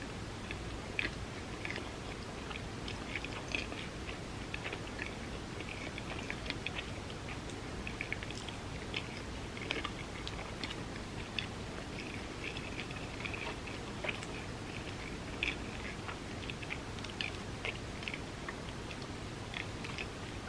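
Close-miked chewing of vegan spam musubi: irregular soft, wet mouth clicks and smacks, several a second, over a steady low background hiss.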